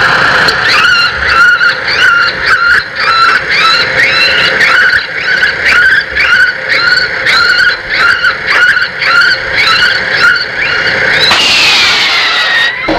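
Bird-scaring sound broadcast from truck-mounted loudspeakers: a squealing call repeated about twice a second, ending near the end in one longer falling tone.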